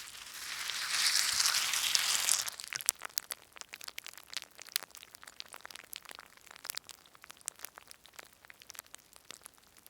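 A loud hiss lasting about two seconds, followed by a long run of scattered, irregular crackles and clicks.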